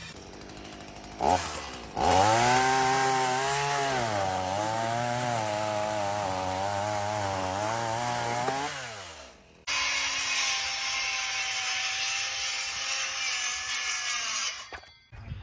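A power tool's motor running in two separate stretches. The first is loud, with a wavering pitch, and winds down about nine seconds in. The second is a steady run with a high hiss and stops suddenly near the end.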